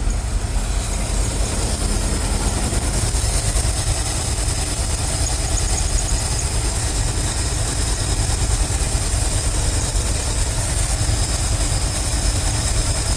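Ford F-350 dump truck's carbureted engine idling steadily, with a steady low rumble; it is running a little rich, with the carburetor still needing adjustment.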